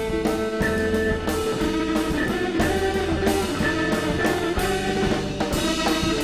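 Rock band playing an instrumental break between sung verses: guitar notes over a drum kit keeping a steady beat.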